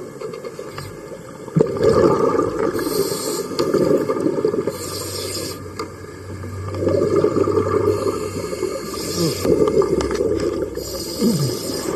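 Scuba diver breathing through a regulator underwater: short hissing inhalations alternate with longer bubbling exhalations, several breaths in a row.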